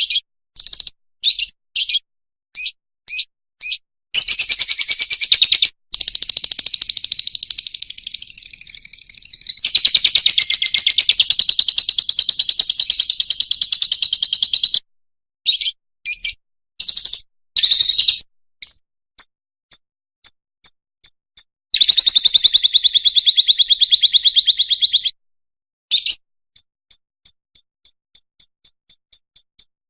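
Fischer's lovebird singing: strings of sharp, high chirps broken by long, rapid buzzing trills lasting a few seconds each, and a run of quick, evenly spaced chirps near the end.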